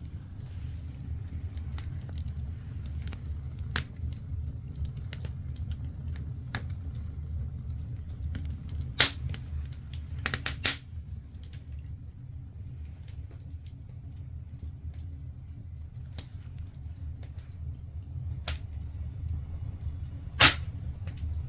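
Firewood burning in a traditional Korean agungi (wood-fired underfloor-heating firebox), crackling with scattered sharp pops over a steady low rumble. The loudest snaps come about nine seconds in, as a quick run of pops a little after that, and once near the end.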